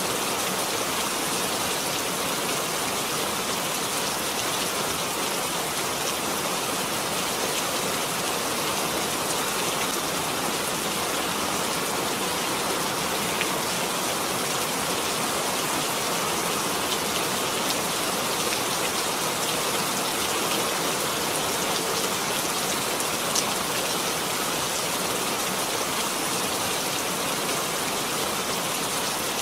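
Steady rain falling, an even hiss of many drops with faint scattered drop ticks and no change in intensity.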